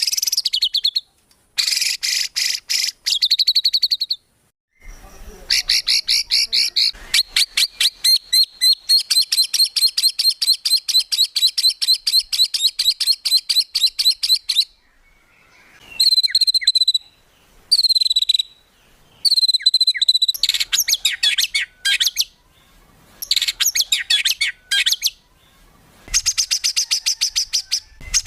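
Songbird 'tembakan' calls: fast rapid-fire series of sharp, high repeated notes, several per second, in loud phrases that start and stop abruptly and change pattern from one phrase to the next, as in an edited mix of different birds' calls.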